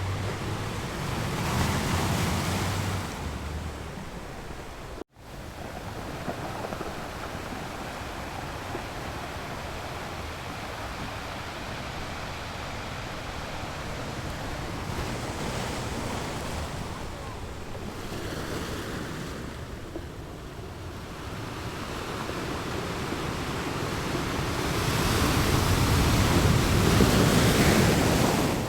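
Ocean waves rolling in, a steady rush that rises and falls, with a louder swell building near the end. About five seconds in, the sound cuts out for an instant.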